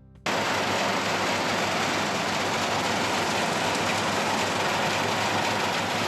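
Mini rice harvester (small combine) running steadily, a loud even machine noise that cuts in about a quarter second in.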